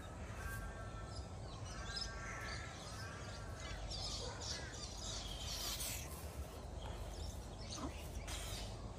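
A bird calling outdoors: three short harsh calls in the first few seconds, then higher chirps from other birds, over a steady low background rumble.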